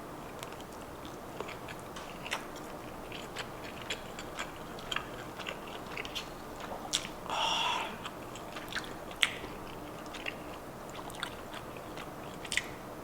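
Close-miked chewing of a bite of longanisa sausage: a run of short, wet mouth clicks and smacks at an uneven pace, with a longer sound a little past halfway.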